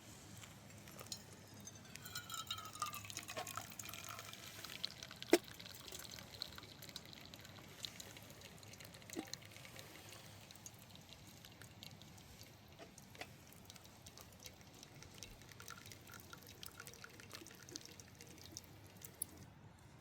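Liquid being poured and dripping, with many small clicks and one sharper knock about five seconds in.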